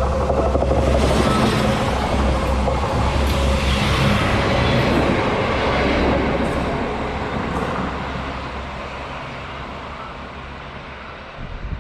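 SA138 diesel railcar with a bicycle wagon passing on the track: low engine drone and wheel-and-rail rumble, loud at first and then fading steadily as the train moves away over the second half.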